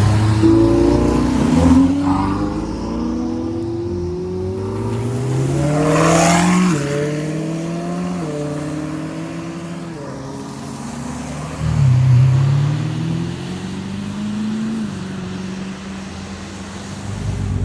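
A car accelerating hard through the gears: the engine note climbs, drops at each upshift three or four times, then fades away. Another engine revs up about twelve seconds in.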